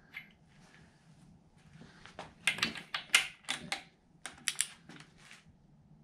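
Hard objects clattering as they are handled and moved about: rapid sharp clicks and knocks, a dense run about two and a half seconds in and another cluster about four seconds in.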